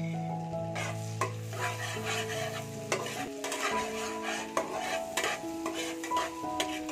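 Chopped ginger, garlic and green chillies sizzling in hot oil and butter in a metal pan, while a spatula stirs and scrapes against the pan with many short clicks. Background music with held notes plays under it.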